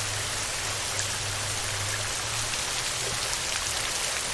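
Steady heavy rain on a tin roof, a dense even patter with scattered individual drops. A low hum lies under it and fades out about halfway through.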